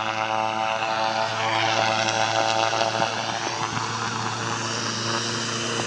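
Airplane engines running steadily, with a stack of humming tones and a high whine that dips and then rises again about two seconds in.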